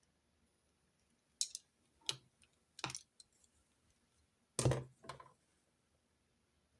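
Pens and stationery handled on a desk during note-taking: a handful of short clicks and taps, the loudest about two thirds of the way in.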